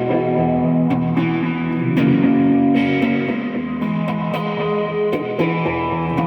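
Guitar music: an electric guitar played through effects with some distortion, its chords and notes changing about once a second.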